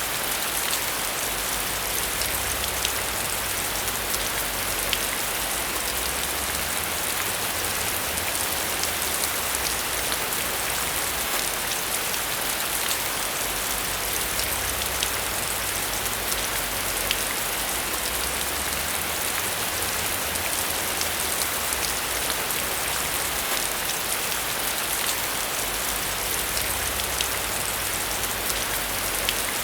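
Steady rain falling, an even hiss with scattered distinct drop ticks and a low rumble underneath.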